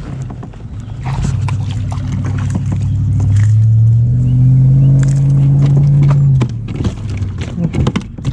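An engine running steadily nearby, rising in pitch and getting louder about three and a half seconds in, then dropping away after about six seconds. A scatter of clicks and knocks follows near the end.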